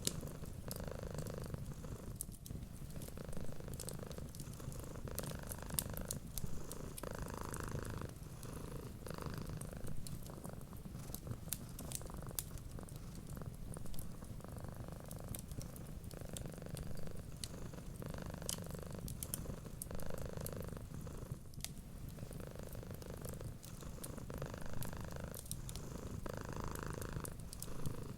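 Cat purring steadily, swelling and easing about every two seconds with each breath, over the small sharp pops and crackles of a wood fire.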